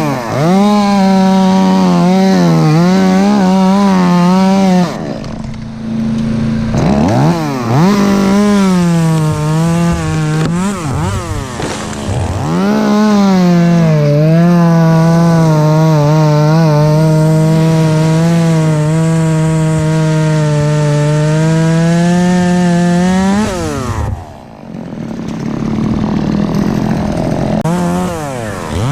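Two-stroke chainsaw running at high revs while cutting ash wood, its pitch wavering under load. It drops back to idle briefly about five seconds in and again near the end, then revs up again each time.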